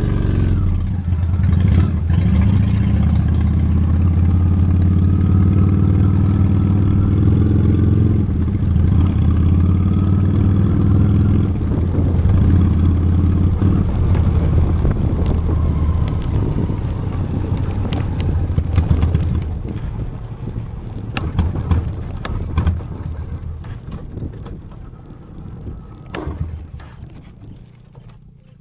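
Honda Steed V-twin motorcycle engine running steadily as the bike rides along. Its sound fades away over the last several seconds.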